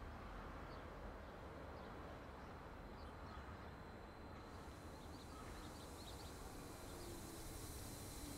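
Quiet outdoor ambience with faint, scattered bird chirps and a steady thin high tone. From about halfway a soft hiss grows.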